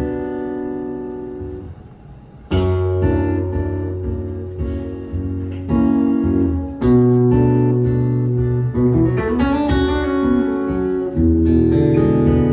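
Live band's song intro led by acoustic guitar strumming chords, with a bass line beneath; the music dips briefly near two seconds in, then new chords are struck and it builds.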